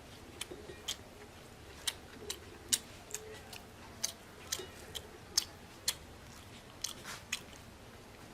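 A person chewing food close to the microphone, with short sharp mouth clicks and smacks coming irregularly, about one or two a second.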